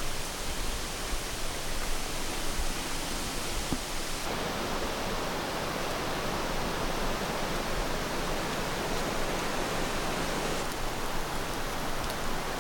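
Creek water running, a steady rushing sound that becomes fuller about four seconds in.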